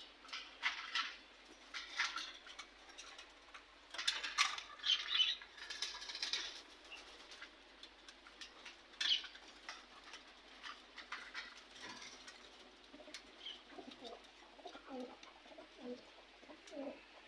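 Caged domestic pigeons in a loft: short flurries of wing flapping and rustling through the first several seconds, then soft, low cooing in the second half.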